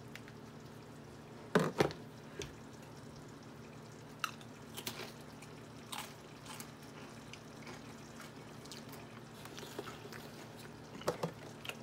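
A person tasting a cracker with dip: a few short crunching and mouth sounds spread over several seconds, the loudest about two seconds in, over a faint steady hum.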